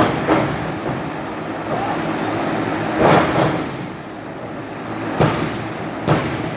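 Pro-wrestling crowd noise with several heavy thuds on the ring canvas: one near the start, the loudest about three seconds in, then three quicker slaps toward the end, fitting a referee's pinfall count.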